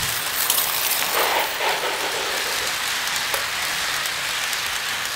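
Toy electric train running forward on its track, heard as a steady hiss with faint ticks.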